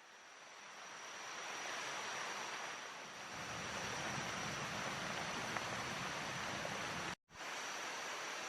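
Steady rush of river water flowing, with a faint high steady tone above it. It breaks off for a moment about seven seconds in and resumes.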